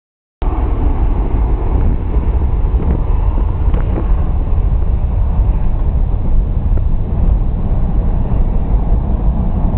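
Steady low rumble of a Boeing C-17 Globemaster III's four turbofan jet engines.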